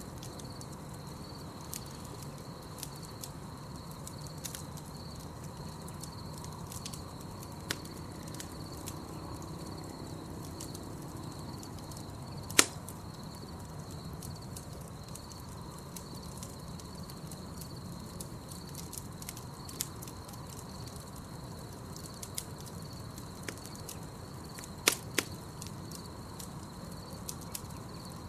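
Campfire burning with a soft low rush and crackling, with scattered sharp pops of burning wood, the loudest about halfway through and a pair near the end. Crickets chirp steadily behind it in a continuous high trill.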